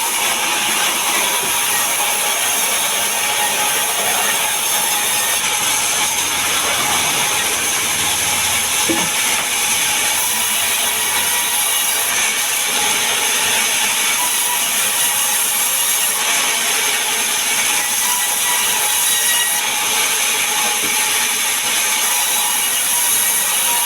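Power saw running steadily as it cuts mahogany and pine wood, a loud, even noise without pauses.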